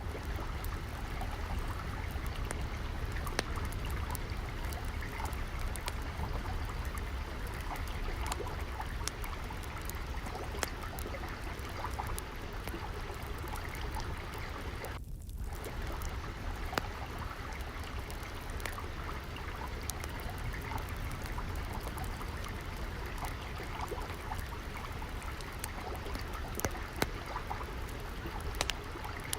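Steady flowing, trickling water, with frequent sharp pops and crackles of a wood fire scattered over it and a low rumble underneath. The sound drops out briefly about halfway.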